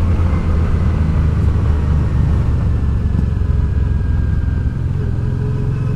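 Honda Deauville's V-twin engine running steadily under way, a low hum with a faint whine that slowly falls in pitch. The engine note shifts slightly near the end.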